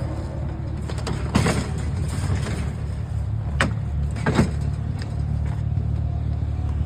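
A vehicle's engine idling with a steady low rumble, broken by three sharp knocks about one and a half, three and a half and four and a half seconds in.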